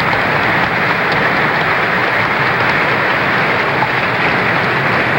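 Large convention-hall crowd applauding steadily.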